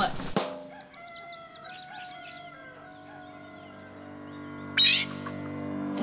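Soft music of held, steady notes, with small birds chirping over it in the first few seconds. About five seconds in, one short, loud bird call stands out above everything else.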